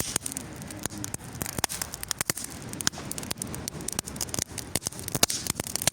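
Campfire of wet, raw firewood crackling, with frequent sharp irregular pops and snaps, the wood spitting sparks.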